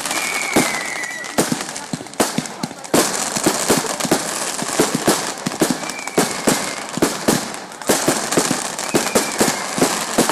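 Firework display: a rapid, continuous volley of sharp bangs and crackles, several a second.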